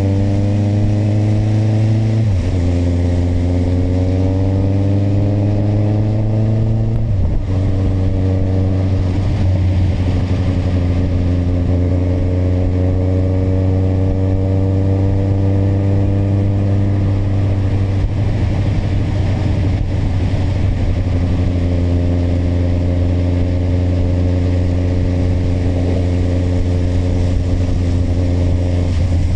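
Kawasaki motorcycle engine accelerating through the gears. Its pitch climbs, drops at an upshift about two seconds in and again about seven seconds in, then settles to a steady cruise. Steady wind and road noise run under the engine.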